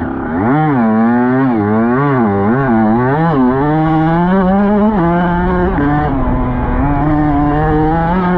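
Dirt bike engine revving up and down in quick surges for the first few seconds, then running at a steadier speed with a drop in pitch about five seconds in.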